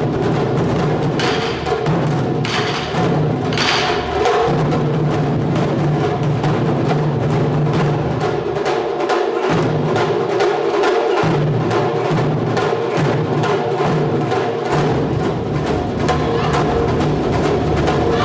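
Japanese taiko drum ensemble playing a fast, dense rhythm of rapid strikes, with drum heads and sharp wooden clicks. A few brief, brighter bursts sound in the first few seconds.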